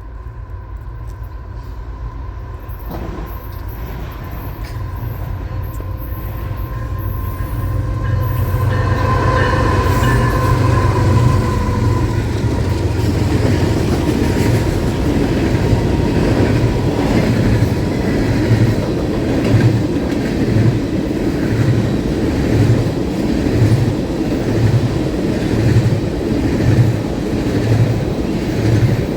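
A train passing close by. It grows louder over the first several seconds, with a steady high whine that fades after about twelve seconds. It then settles into a steady rumble with the wheels clicking over the rail joints in an even rhythm.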